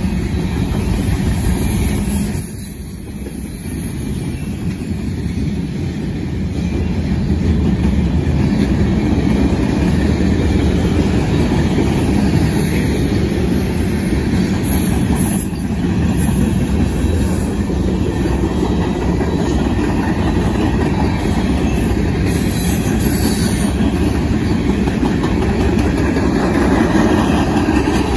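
Freight cars of a long manifest train rolling past close by: the steady noise of steel wheels running over the rails, dipping briefly about three seconds in.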